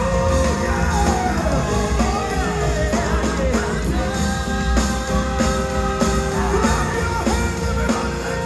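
Live gospel music: a choir and lead singers singing over a full band with bass, drums and guitar.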